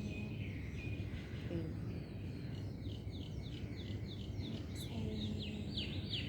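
Birds chirping: a quick run of short, downward-sliding chirps starting about two and a half seconds in, over a steady low background rumble.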